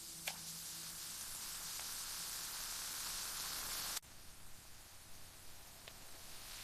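A steady hiss that grows brighter, then cuts off abruptly about four seconds in, leaving a fainter hiss. The last notes of soft music fade out in the first second or so.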